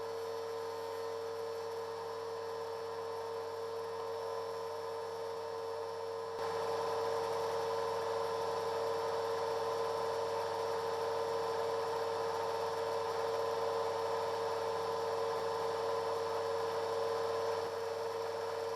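A steady machine hum with one strong held tone, stepping up in loudness about six seconds in.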